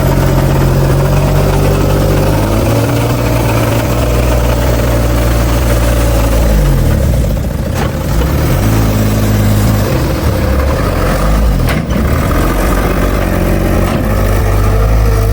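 Heavy diesel engine of earthmoving machinery running, its pitch dipping and recovering twice as the load changes, with a steady higher whine above it.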